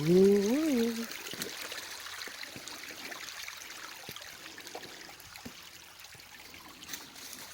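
Creek water trickling steadily. A person's drawn-out, rising-and-falling call sounds for about the first second.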